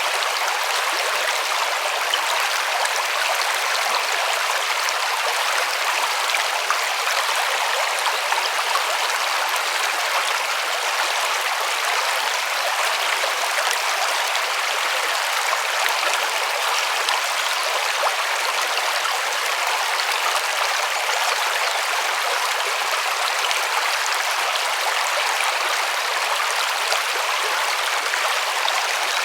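Forest river flowing over stones, a steady rushing with a bright splashing hiss.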